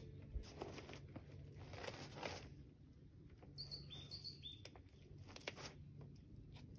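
Quiet outdoor stillness: a small bird chirps in two quick pairs of short notes about halfway through. Faint scuffs and breaths come from a climber pulling onto the rock.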